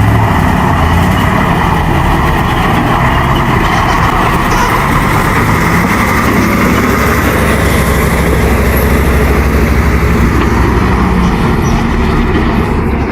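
Heavy logging truck's engine running steadily and loudly.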